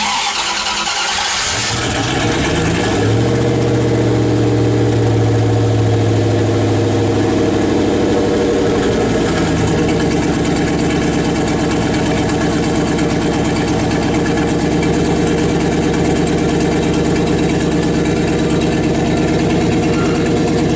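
Turbocharged Dodge Dakota's 5.2-litre Magnum V8 starting up: it catches suddenly and climbs to a fast idle. About nine seconds in it drops slightly and then idles steadily.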